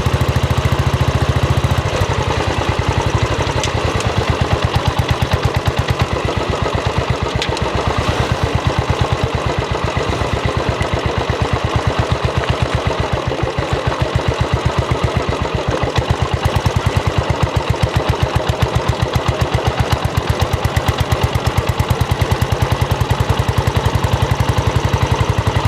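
Royal Enfield Bullet 500's single-cylinder four-stroke engine idling, its exhaust giving a steady, even beat of thumps. The beat quickens a little about two seconds in and settles back later on.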